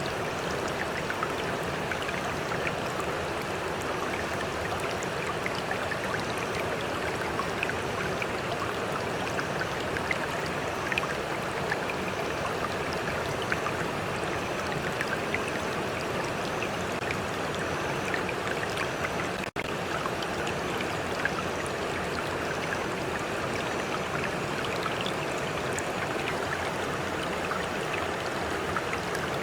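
A shallow stream running steadily, with water lapping and trickling over stones as many small splashes in an even rushing. The sound drops out for a split second about two-thirds of the way through.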